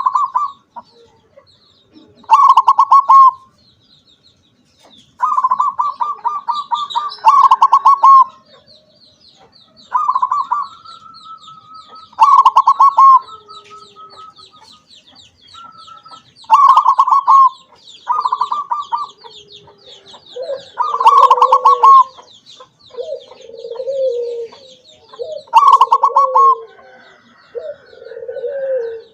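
Zebra dove (perkutut) singing, repeating its rapid trilled cooing phrase about a dozen times with short pauses between. In the last third, lower-pitched cooing calls join in, and a faint, fast, high chirping runs underneath.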